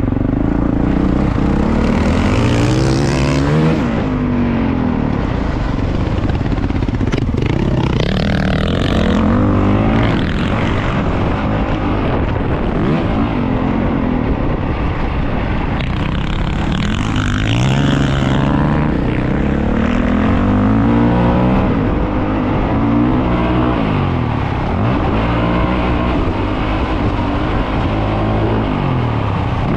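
450cc four-stroke dirt bike engine running hard, its pitch rising and falling over and over as the throttle is opened and closed.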